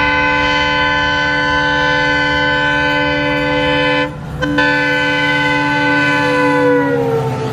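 EMD WDP4D diesel locomotive's multi-tone air horn sounding one long blast, cut briefly about four seconds in, then held again. Near the end the whole chord slides down in pitch as the locomotive passes, over the low rumble of the train.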